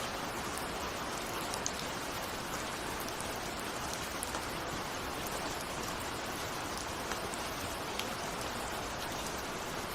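Steady rain with scattered single raindrops ticking against a window pane.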